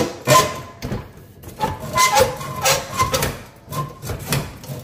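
Dishwasher door spring assembly being pushed back into place by hand: a series of knocks and clanks from metal and plastic parts, some with a brief metallic ring.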